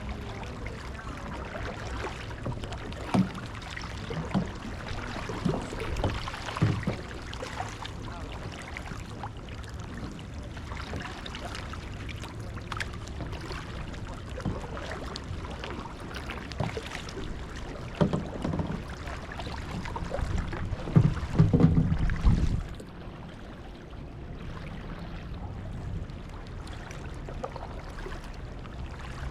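Kayak paddling: water swishing along the hull with occasional knocks, over low wind rumble on the microphone. The rumble swells into a louder low burst about three-quarters of the way through, then drops away.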